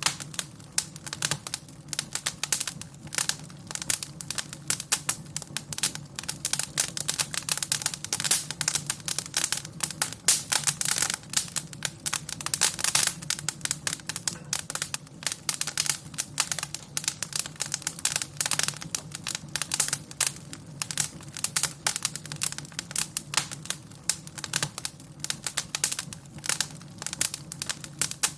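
Wood fire crackling in a fireplace: dense, irregular sharp crackles and pops many times a second over a steady low rumble.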